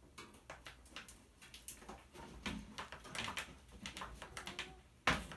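Irregular small clicks and knocks of a screwdriver and loose parts being handled against a toaster oven's metal case, with one loud knock about five seconds in.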